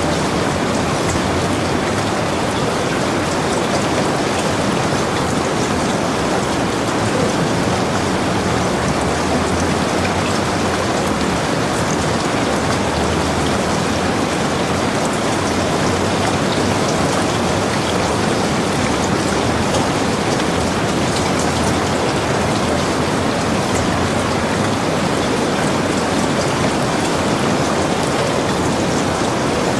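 Heavy rain falling steadily on a log cabin, a dense, even hiss with countless small drop impacts.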